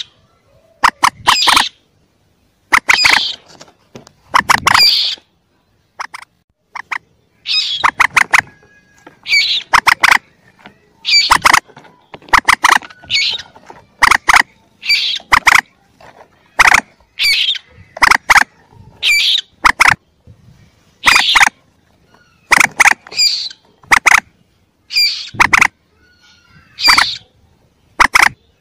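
Looped lure recording of young mandar (moorhen/rail-family) calls: short clusters of sharp, rapid chirps that repeat about every one to two seconds.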